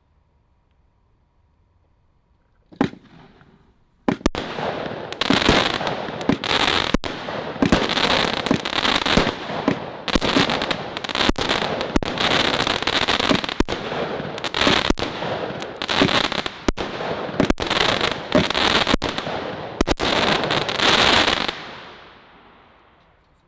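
A 16-shot consumer firework cake firing: a single bang about three seconds in, then a rapid run of shots and bursts that merge into continuous noise for about seventeen seconds, dying away near the end.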